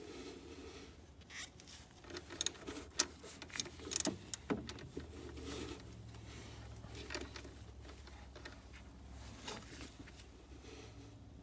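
Irregular light clicks and small metallic knocks of hand tools and parts being handled during reassembly, over a low steady hum.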